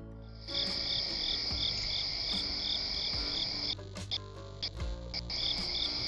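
Night insects, crickets or katydids, trilling steadily at a high pitch with a second pulsing call about three times a second. The chorus drops out briefly a little past halfway and then starts again.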